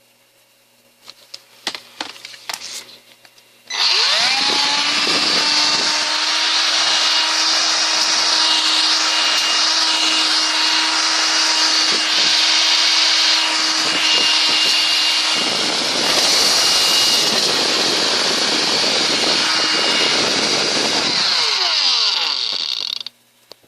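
Electrolux ZB2904X 18V cordless stick vacuum, running on its replacement lithium cells: after a few handling clicks, its motor spins up with a rising whine and runs steadily, its sound changing about halfway through, then spins down and stops near the end.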